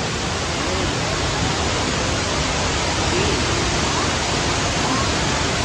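Waterfall's falling water rushing in a steady, loud, even noise.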